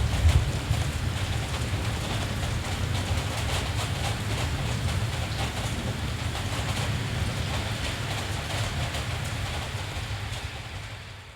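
Steady rain falling, an even hiss, over a constant low rumble, with a brief louder swell right at the start; the whole sound fades away near the end.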